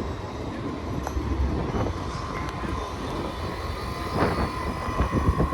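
Buses and trams at a busy city stop: a low, steady rumble of heavy vehicles, with a steady high-pitched whine coming in about two seconds in.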